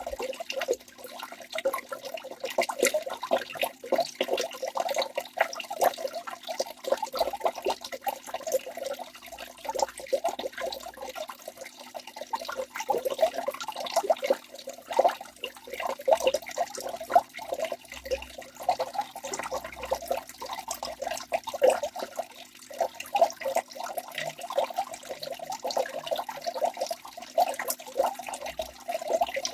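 Waterfall: water rushing and splashing without a break, a busy, uneven spatter and gurgle that never settles into a rhythm.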